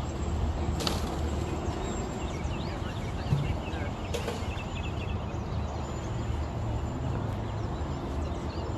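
Many small birds chirping over a steady low rumble, with a couple of faint clicks.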